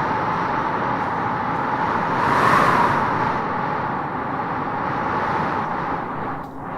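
Cold wind blowing steadily in gusts, strongest about two and a half seconds in and dropping briefly near the end.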